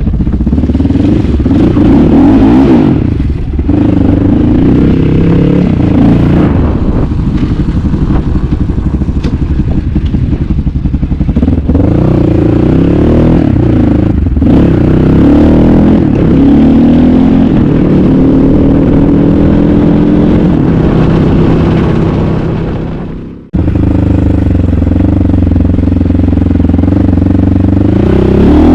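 Asix XT97 300cc enduro motorcycle engine being ridden, revving up and down with the throttle, with some mechanical clatter. The sound sags and cuts out for an instant about three-quarters of the way through, then comes back at full level.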